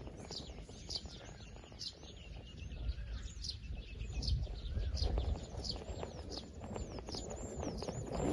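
Small birds chirping rapidly and continuously, many short high-pitched falling and arching notes overlapping, over a low rumble.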